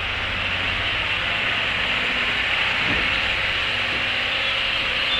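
Onboard running noise of a JR 103-series electric train's motor car (MT55 traction motors) at speed: a steady rush of wheels on rail, with a faint knock about three seconds in.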